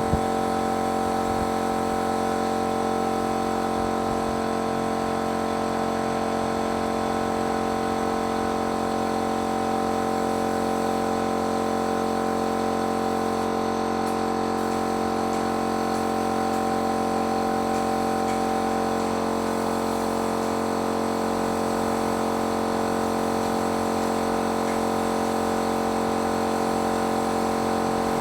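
Motor of a paint-spraying machine running steadily at an even pitch, with a constant hiss under the hum.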